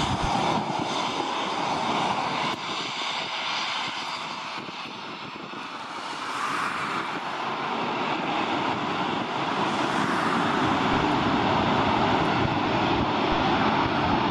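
Military jet aircraft engines at high power during take-off: a broad rushing noise that dips a few seconds in, then builds again to a steady loud level.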